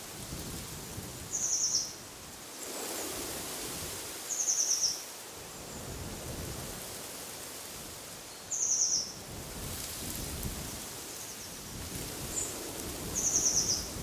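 A songbird repeating one short, high, rapid trill four times, about every four seconds, over a steady rush of wind through trees that swells in two gusts.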